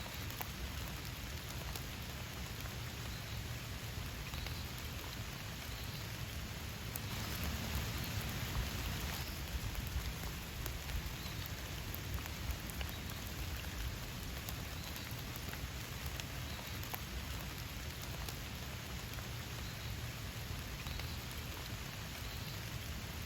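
Steady rain falling, with many individual drops ticking; it grows a little heavier for a few seconds about seven seconds in.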